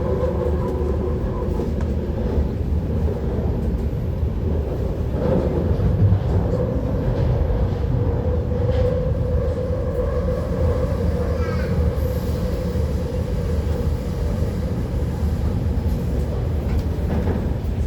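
MTR Tuen Ma line IKK-Train electric multiple unit running at speed between stations: a steady rumble of wheels on rail with a constant hum from the traction equipment, and a brief rising whine about two-thirds of the way through.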